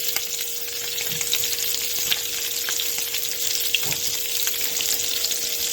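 Bacon-wrapped stuffed peppers sizzling in a hot pan as they sear, a steady hiss with scattered small crackles. A steady faint hum runs alongside.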